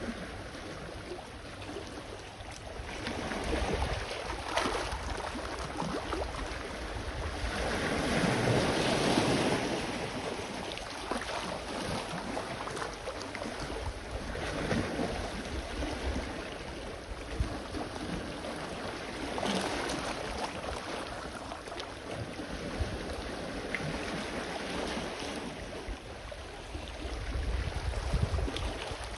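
Sea waves washing onto the shore, the surf swelling and fading every few seconds with the largest wash about eight seconds in. Wind rumbles on the microphone underneath.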